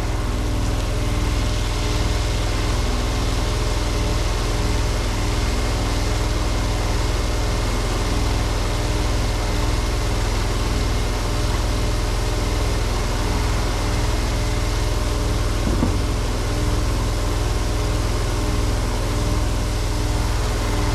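Gas engine of a pressure-washing rig running steadily at constant speed.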